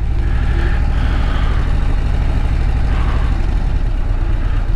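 Harley-Davidson Road Glide CVO ST's Milwaukee-Eight 121 V-twin engine running steadily, heard from the rider's seat.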